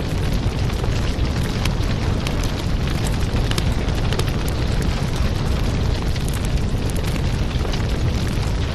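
Fire in a fireplace burning steadily, with a deep rumble under frequent sharp crackles.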